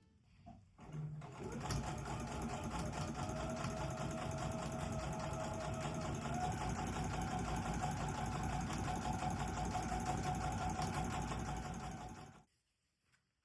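Sewing machine stitching steadily at an even speed, starting about a second in and stopping abruptly near the end.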